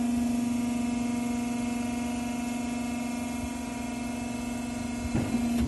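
The powered top-lid drive of an explosion-proof double sigma-blade mixer running as the lid closes: a steady, even motor hum that stops near the end.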